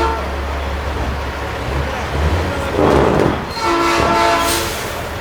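Semi truck's air horn blasts a held chord for about a second, past halfway through, after a short burst of hiss, over the steady low rumble of idling diesel engines.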